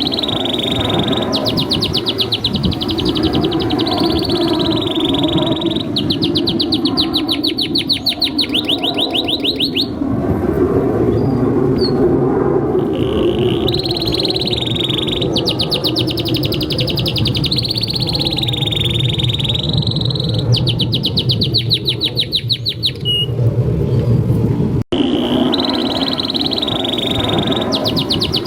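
Domestic canary singing a long song of fast trills and drawn-out rolling phrases, with short pauses, over a steady low rumble. The sound drops out for an instant near the end, then the song starts again.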